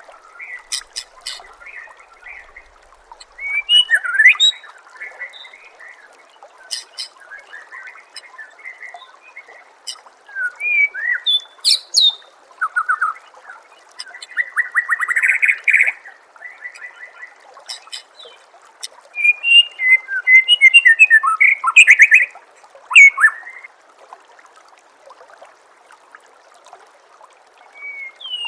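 White-rumped shama (murai batu) singing a varied song of whistled phrases, fast trills and sharp clicks, in bursts with short pauses between, over faint steady background noise.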